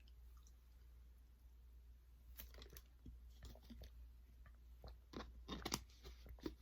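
Faint chewing of crunchy food: after about two seconds of near quiet, a string of small, irregular crunches that grows busier near the end.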